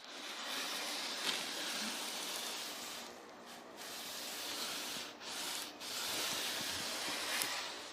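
A Sharpie marker on a wooden trammel arm rubbing across blue foam insulation board as a circular arc is drawn. It is a steady scraping with a few brief breaks in the middle.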